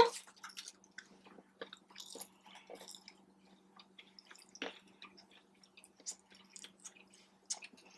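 Close-up chewing of breaded boneless chicken wings: soft, wet mouth clicks and smacks at irregular intervals, over a faint steady hum.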